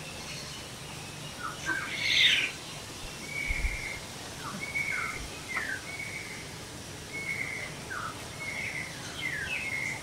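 Birdsong: short whistled notes repeated about once a second, mixed with short downward-sliding notes, and a louder, fuller call about two seconds in.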